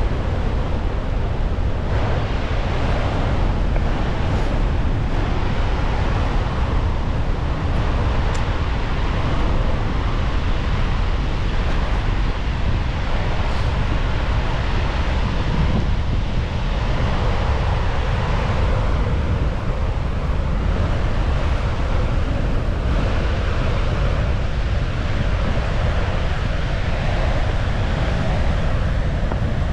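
Dettifoss waterfall, a large glacial-river falls, rushing steadily with a deep, unbroken rumble of falling water.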